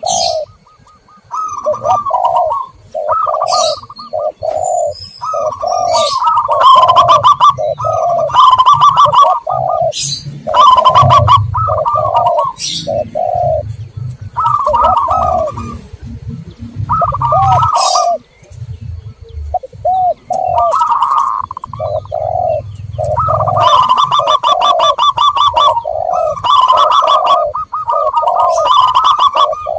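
Zebra doves and spotted doves cooing over and over, several calls overlapping, with rhythmic higher chirping notes in places: a dove lure recording played to call in wild doves.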